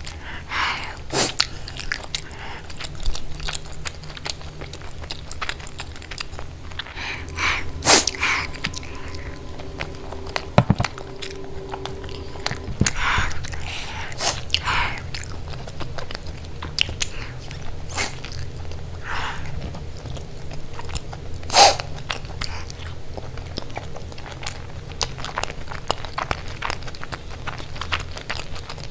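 Close-miked biting and chewing of crunchy food: irregular crisp crunches and clicks throughout, with the loudest bites about eight and twenty-two seconds in.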